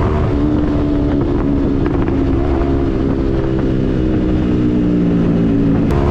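Yamaha MT-15's single-cylinder four-stroke engine running through a Yoshimura aftermarket exhaust at steady riding revs, its pitch dipping and rising a little. There is a brief click near the end.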